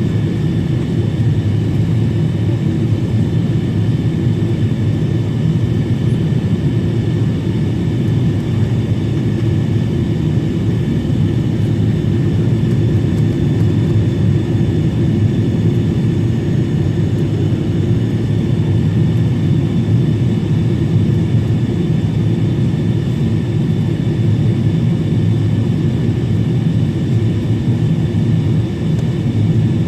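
Steady cabin drone of a Boeing 777-300 in flight on descent for landing: a deep, unchanging roar of engines and airflow with a few faint steady whining tones above it.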